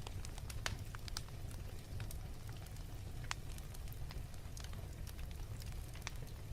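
Fireplace crackling: irregular sharp pops and snaps over a steady low rumble, with a few louder pops standing out.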